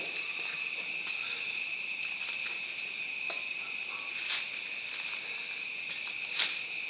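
Steady high-pitched chirring of insects, with a few brief light clicks partway through and near the end.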